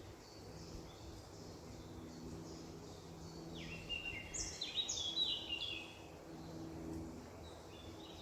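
Songbirds singing: a chorus of short, quick chirping notes, with the loudest run of stepped, falling notes near the middle. A faint low hum runs underneath.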